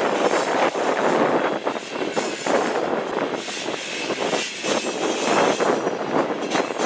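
Freight train tank cars rolling past at close range: a steady rumble of wheels on rail with frequent irregular clanks and knocks.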